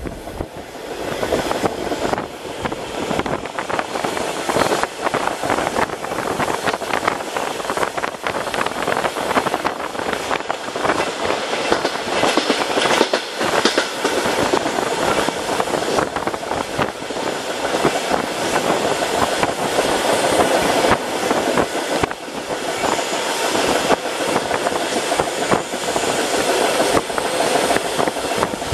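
Suburban passenger train running at speed, heard from inside the carriage: a steady rush of wheel and rail noise with frequent irregular clicks and knocks from the wheels on the track.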